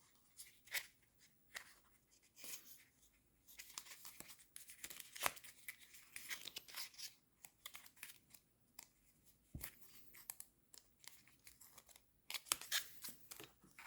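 Faint rustling and crinkling of sticker sheets and their packaging being handled, with many small sharp clicks and busier stretches of crinkling about four seconds in and near the end.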